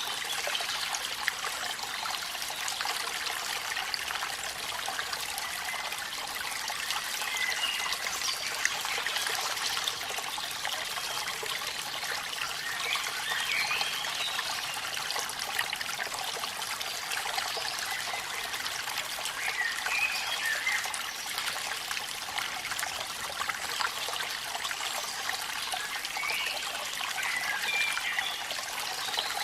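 Steady trickling and rushing water of a waterfall in the rain, with a few faint short chirps now and then.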